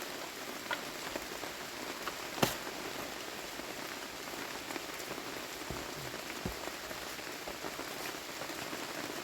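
Steady rain falling, with a few sharp knocks, the loudest about two and a half seconds in.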